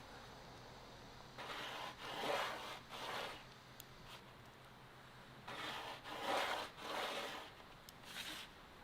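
Hand-worked scraping strokes on wood, one stroke after another, in two runs of about three strokes each and a last stroke near the end.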